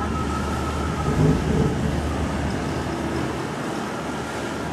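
Steady rumble of a moving vehicle, with a low hum and no sudden events.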